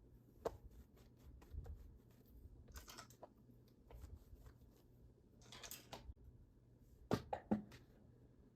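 Household items being handled: scattered light knocks and clicks, two brief rustles, and a quick cluster of sharper knocks near the end.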